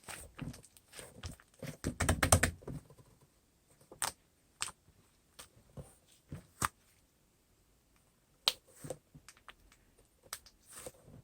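Scattered irregular clicks and taps, with a denser burst of rustling and clattering about two seconds in.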